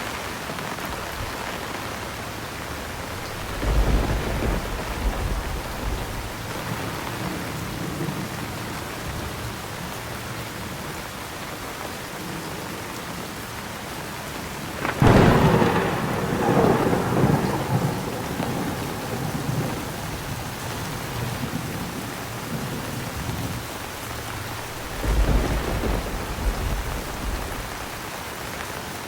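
Steady heavy rain with thunder: a low rumble about four seconds in, a loud sharp thunderclap about halfway through that rumbles on for a few seconds, and another low rumble about four seconds before the end.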